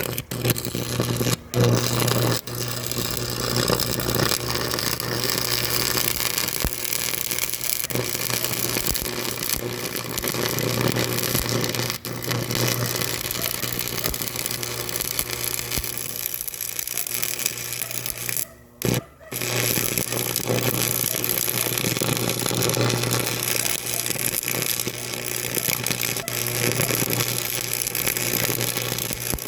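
An engine on heavy machinery running steadily with a strong low hum, cutting out briefly twice.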